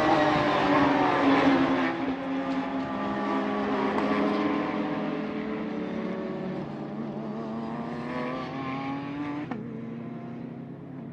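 Racing car engines at high revs on track. One car passes with its engine note falling in pitch over the first couple of seconds, then a steadier engine note carries on, and the sound changes abruptly near the end.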